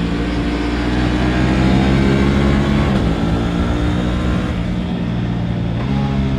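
Aprilia RS 660's parallel-twin engine pulling under throttle. Its pitch rises for about three seconds, drops sharply at a gear change, then runs on at steadier revs.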